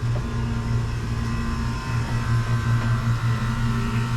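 A steady, low mechanical hum with a few faint, thin higher tones over it, unchanging throughout.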